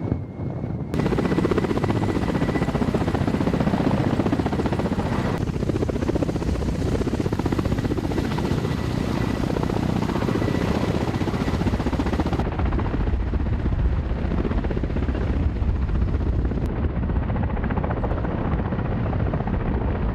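Military helicopter rotor and turbine engine noise, a loud, steady, rapid chop with a dense rush underneath, changing abruptly a second in and again around twelve seconds in as the shots cut.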